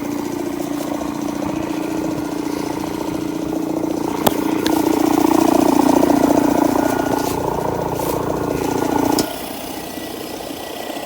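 A motor running steadily at one pitch, growing louder about halfway through with a couple of sharp clicks, then cutting off abruptly about nine seconds in.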